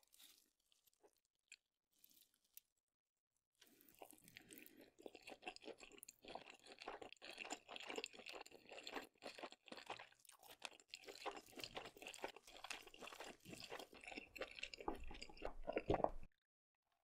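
Close-miked ASMR eating sounds: a person chewing sauce-covered seafood, a dense run of quick wet clicks and smacks that starts about three and a half seconds in after near silence and stops shortly before the end.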